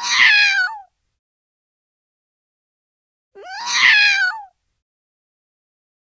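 A cat meowing twice, two matching calls about three and a half seconds apart. Each lasts about a second and rises, then falls in pitch.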